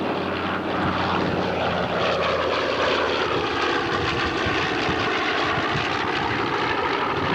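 Piston-engined propeller aircraft flying past at an airshow, a steady loud engine drone whose pitch sinks through the middle of the pass and then levels off.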